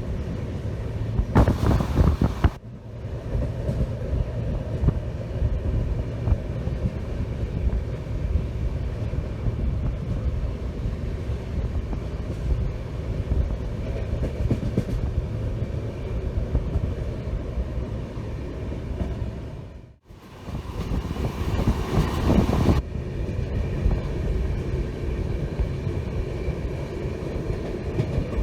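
Passenger train running on the rails, a steady rumbling ride noise. Two louder stretches of a second or two come early and about 21 seconds in, and the sound drops out abruptly for a moment just before the second.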